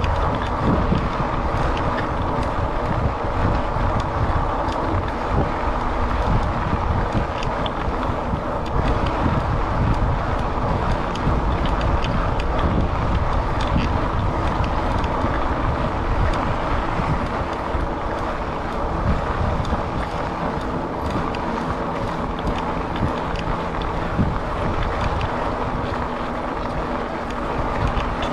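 Wind buffeting a chest-mounted action camera's microphone while riding an electric fat-tire bike, over a steady low rumble of tyres on the path.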